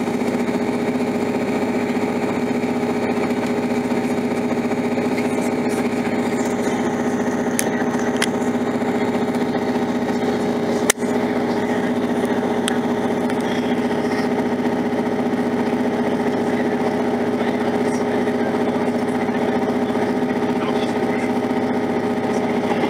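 Steady engine drone and rolling noise heard inside a moving diesel multiple-unit passenger train, with one sharp click about eleven seconds in.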